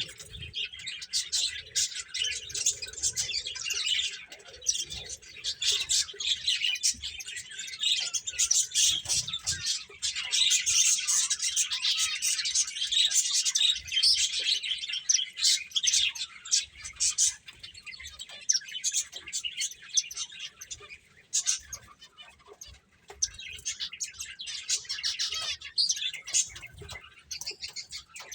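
A group of pet finches chirping, many quick high calls overlapping almost without a break, with a couple of short lulls near the end.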